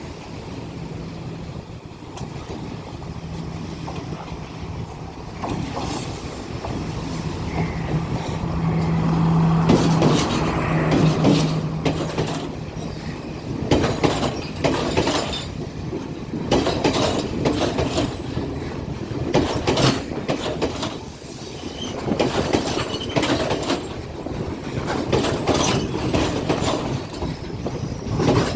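Sri Lanka Railways Class S14A diesel power car running through with Class S8 coaches. A steady engine drone builds to its loudest about ten seconds in, then the wheels clatter again and again over rail joints as the carriages roll past.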